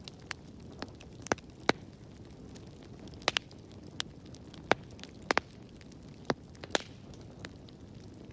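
Wood fire in a fireplace crackling: irregular sharp pops and snaps, a few much louder than the rest, over a steady low hiss and rumble of the flames.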